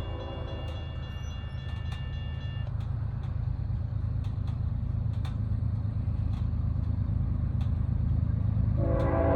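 Freight diesel locomotive horn, a chord of several tones, trailing off in the first few seconds over the low, steady rumble of the approaching train, which grows louder throughout with scattered sharp clicks. The horn sounds again, loudly, near the end.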